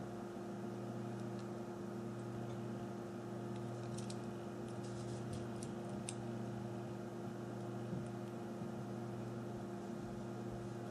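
Steady low background hum with a few faint light clicks around the middle.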